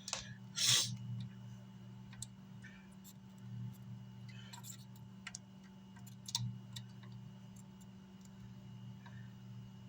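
Scattered small clicks and taps of hands and tools working on an amplifier's circuit board, with a louder rustling burst about a second in, over a steady electrical hum.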